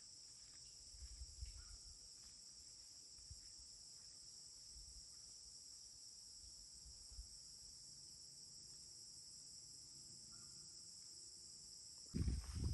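Faint steady chorus of crickets chirring. A louder low rumble breaks in near the end.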